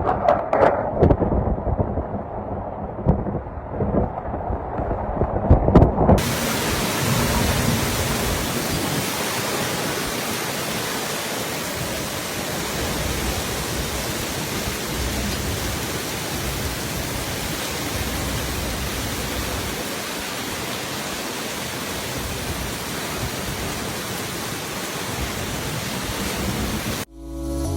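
Super typhoon wind gusting and buffeting the microphone in deep, uneven rumbles; about six seconds in it changes abruptly to a steady, even hiss of driving wind and rain. Music comes in right at the end.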